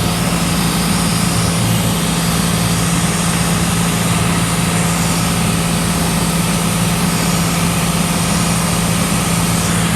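Cessna 182's piston engine and propeller droning steadily, heard inside the cabin as a low, even hum under loud rushing wind and airframe noise.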